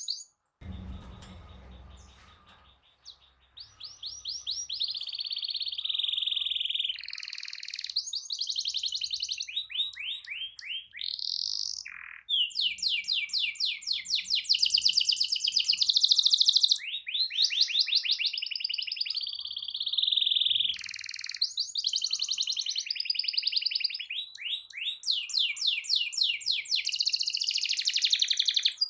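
Domestic canary singing long rolling trills: runs of rapid, evenly repeated high notes and sweeping chirps, broken by short pauses.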